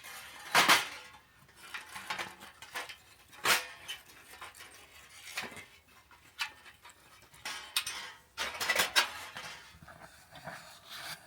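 Irregular metallic clinks and knocks, about a dozen, of varying loudness: the parts of a Belmont TABI folding fire pit being handled and set up.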